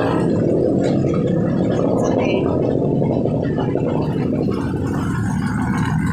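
Engine exhaust through a muffler, running steadily with a fast, even pulsing note.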